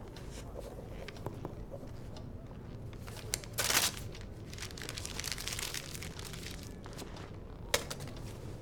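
Crinkling, rustling handling noise with scattered light taps. The loudest rustle comes about three and a half seconds in, followed by a softer rustle and a sharp click near the end.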